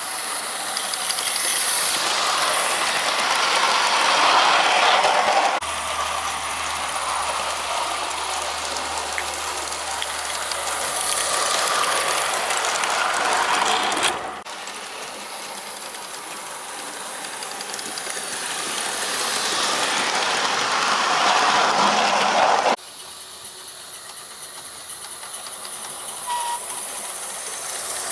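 G-scale live steam model locomotive running on its track: steam hissing and the mechanical clatter of its running gear and wheels, growing louder and fading as it passes. The sound changes abruptly three times, at cuts between shots.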